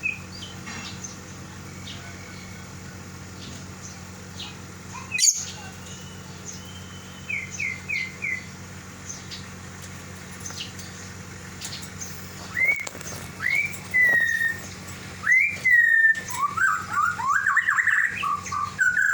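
Lovebird calling to its companion that is out of the cage: sharp chirps, sparse at first with four quick falling chirps about a third of the way in, then louder calls that come faster and faster in the last third. A sharp click about five seconds in.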